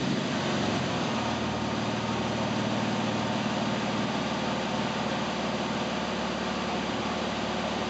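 Porsche 997 Carrera Targa 4S's 3.8-litre flat-six idling steadily through a one-off titanium exhaust, heard from outside the car.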